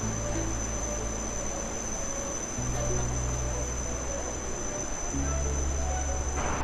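Steady high-pitched drone of an insect chorus over background music with slow, held bass notes; the insect sound cuts off abruptly near the end.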